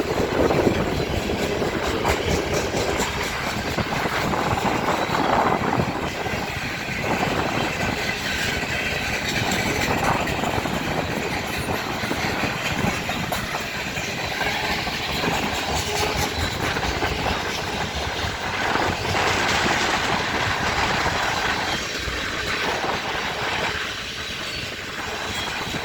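Freight train cars rolling past close by, a steady rumble and rattle with wheels clicking over the rail joints.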